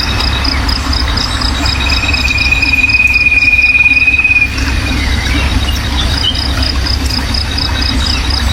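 High insect chirping repeating about five times a second, with a single long, slightly wavering high trill for about three seconds, over a steady low rumble.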